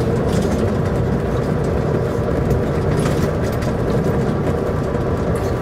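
Semi truck's diesel engine running steadily, heard from inside the cab as a low, even drone.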